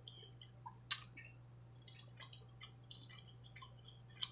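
Close-miked eating: soft, wet clicks and smacks of chewing a mouthful, with a sharper click about a second in and another near the end.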